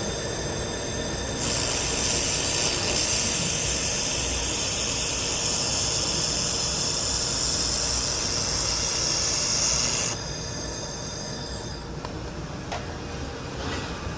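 IPG LightWELD XR handheld laser welder running a continuous-wave weld at 650 W: a loud, high hiss starts about a second and a half in, holds steady, and cuts off suddenly about ten seconds in, over a steady machine hum.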